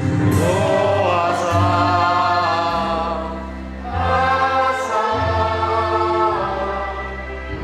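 A congregation singing a hymn together over held low accompaniment notes, with a short breath pause between two sung phrases about halfway through.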